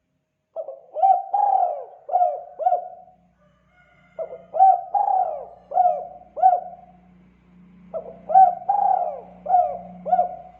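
Spotted dove (tekukur) cooing: three phrases of about five notes each, one phrase every three to four seconds.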